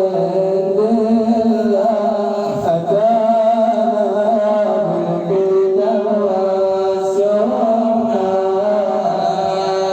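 Islamic devotional nasheed (madih) sung by a male munshid, the voice holding long, wavering melismatic notes.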